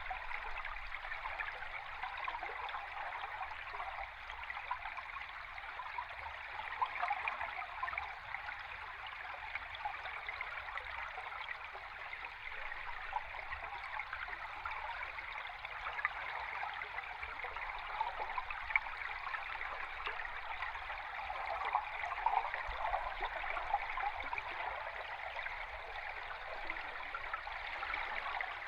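River stream recorded underwater: a steady rush of flowing water, full of fine crackles and ticks, with little bass.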